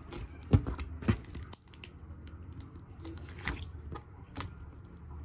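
Ice slime being squeezed and poked by hand, its surface crackling in many small irregular clicks and squishes, with a few louder pops.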